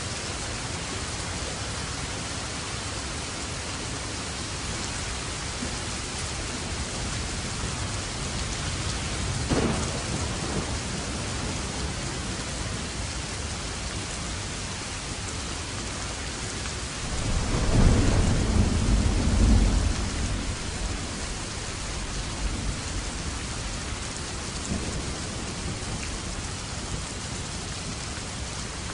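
Steady heavy rain falling, with a short crack of thunder about ten seconds in and a louder rolling rumble of thunder lasting a few seconds past the middle.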